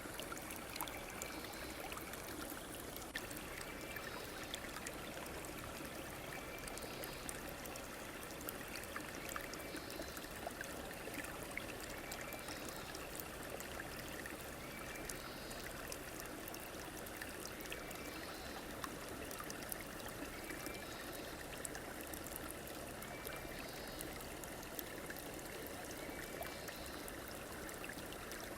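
A river or stream flowing steadily with a trickling, babbling sound. A short, high call repeats faintly about every two to three seconds over the water.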